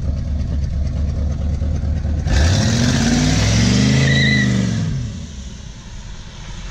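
Third-generation Chevrolet Camaro's carbureted engine idling, then revving hard about two seconds in as the car accelerates away. The engine note climbs, then falls and fades as the car pulls off down the street.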